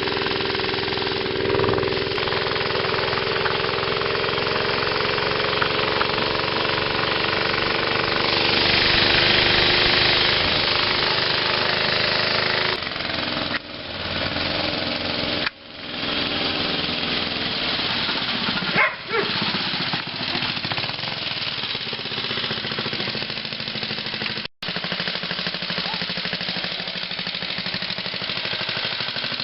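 Mini bike's small single-cylinder engine running steadily under way, with a rattly edge. A rush of wind on the microphone swells for a few seconds near the middle, and the sound cuts out abruptly a few times.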